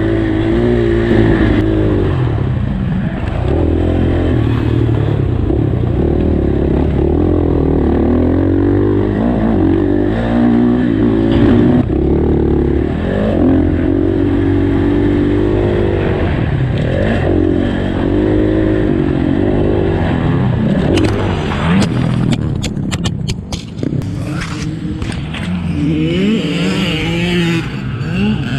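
Dirt bike engine revving up and down as it is ridden around a motocross track, its pitch rising and falling again and again through the gears. About three-quarters of the way through comes a quick run of clattering knocks.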